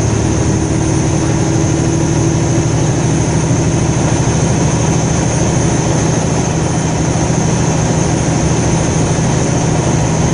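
Car moving at road speed, heard from inside the cabin: a steady mix of engine and road noise with a low hum.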